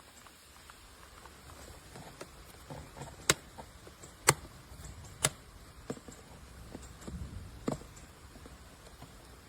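A handful of sharp, separate clicks over a faint background, the loudest two a second apart near the middle.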